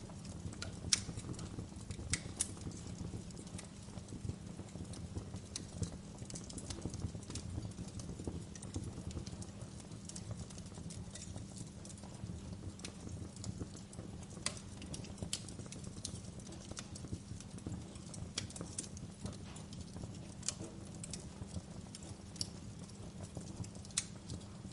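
Wood fire crackling in a fireplace: irregular sharp pops and snaps over a steady low rumble of flames, with a louder pop about a second in.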